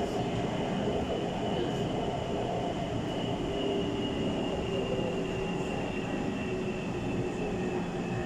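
Taipei Metro Bannan line train running through the tunnel: steady rumble and rail noise with a motor whine that slowly falls in pitch.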